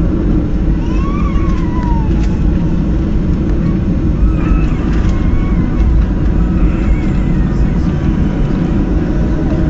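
Steady low roar inside the cabin of a Boeing 737-800, from its CFM56 engines and the airflow around the fuselage during the landing. Faint whines near the start and in the middle rise and fall.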